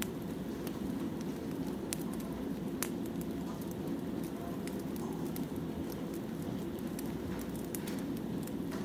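Firewood burning: scattered sharp crackles and pops, two louder ones about two and three seconds in, over a steady low rumble of the fire.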